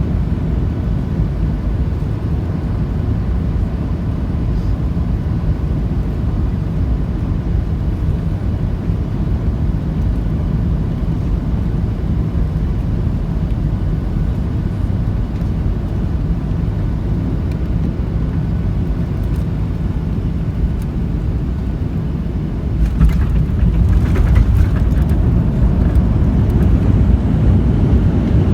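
Airliner cabin noise: a steady low rumble of engines and airflow. It grows louder about 23 seconds in, with light rattling.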